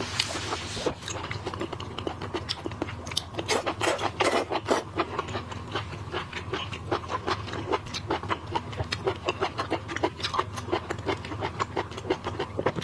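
Close-up eating sounds of boiled seafood: a dense, irregular run of wet clicks, crackles and crunches from chewing and handling shellfish.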